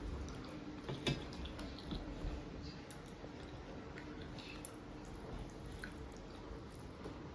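Wet eating sounds of rice and fish curry: soft squishing and chewing with scattered small clicks, the sharpest about a second in.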